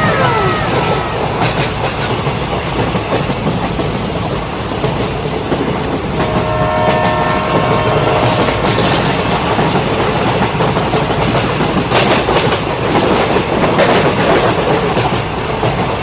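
Train running with a steady rumbling clatter. A horn sounds a chord of steady tones for about a second and a half midway, and a short falling tone comes right at the start.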